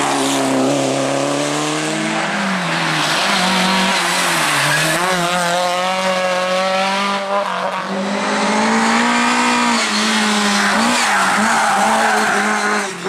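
Rally car engine at full throttle, revving up and dropping back several times with gear changes and lifts, one sharp drop about seven seconds in, with tyres squealing.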